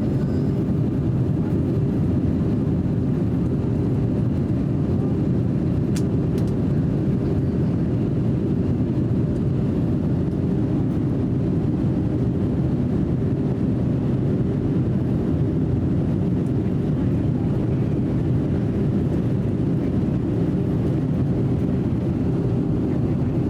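Airliner cabin noise during the descent to landing: a steady, low rumble that does not change. A brief faint click about six seconds in.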